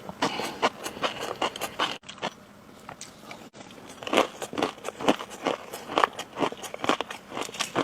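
Close-miked ASMR eating: a person biting and chewing crunchy food, with dense crackly crunches. Abrupt breaks about two seconds in and again about three and a half seconds in, where one clip cuts to the next.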